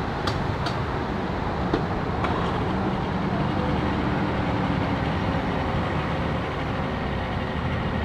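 A motor engine running steadily under outdoor background noise, with a few light clicks in the first couple of seconds.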